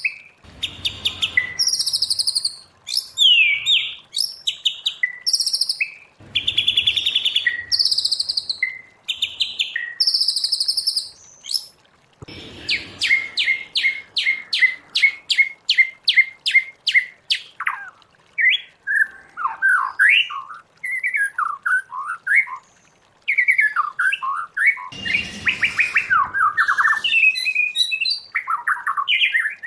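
White-rumped shama singing a long, varied song. It opens with harsh buzzy notes alternating with short clear whistles, breaks into a fast, even run of repeated notes about thirteen seconds in, then moves into rich whistled phrases that glide up and down.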